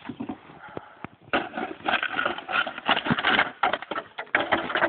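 A shovel chopping and scraping at packed snow and ice, with a few sharp knocks at first and then, from about a second in, a quick run of crunching, scraping strikes as the ice breaks up.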